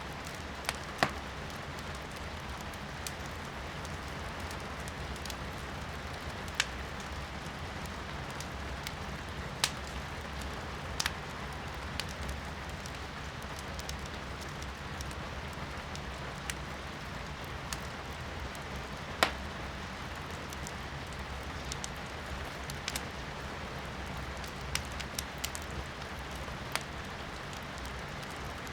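Wood fire in a fireplace crackling, with sharp, irregular pops every few seconds over a steady hiss of rain.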